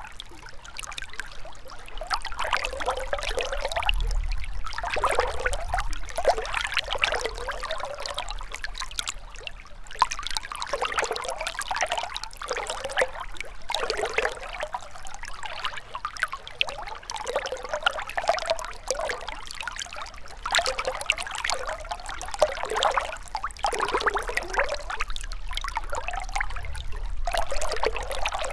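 Shallow river water flowing and trickling over stones, a steady babble with small splashes and gurgles that swell and ebb.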